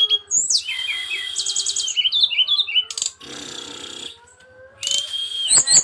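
Brown-chested jungle flycatcher singing: a varied song of long steady whistles, quick rising notes and fast trills, with a short pause about four seconds in.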